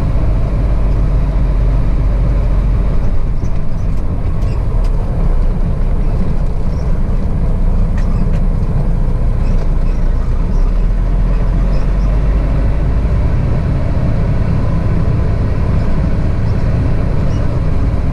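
Container truck's diesel engine and road noise, a steady low rumble heard inside the cab while driving slowly.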